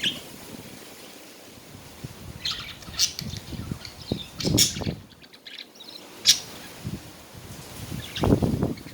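Pet budgerigars chirping and chattering in scattered short, sharp calls, with some low rustling or fluttering in between.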